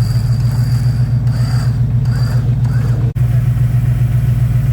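A vehicle engine idling steadily with an even low throb, cutting out briefly about three seconds in.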